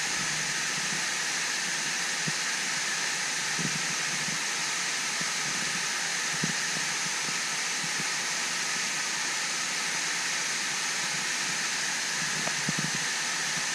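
Steady rushing roar of water pouring down a waterfall, with a few soft low thumps now and then.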